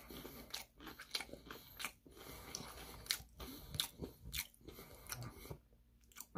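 Close-up chewing and biting of crispy Korean fried chicken: a run of sharp, crisp crunches with wetter chewing between them, easing off near the end.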